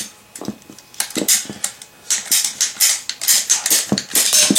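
PVC pipe being cut by hand: a run of short, quick cutting strokes. They come scattered at first, then fast and steady from about two seconds in, ending with the cut through.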